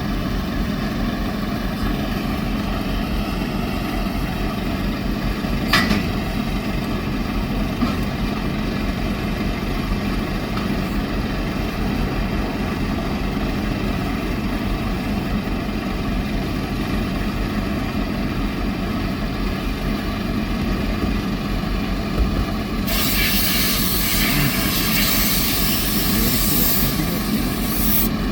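Semi truck engine idling steadily, with a single sharp knock about six seconds in. Near the end a loud hiss of compressed air runs for about five seconds, then cuts off.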